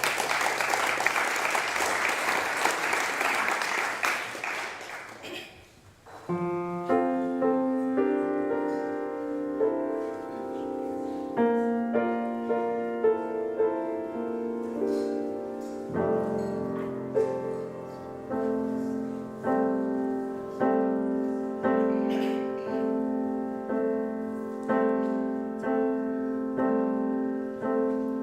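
Audience applauding for about five seconds, then a piano playing the introduction to a gospel choir song, chords struck in a steady rhythm.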